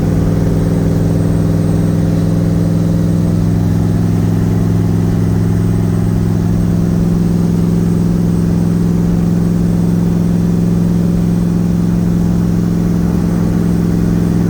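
Twin-turbo Nissan VK56 5.6-litre V8 in a 300ZX running at a steady cruise, a constant even drone with no revving, heard from inside the car.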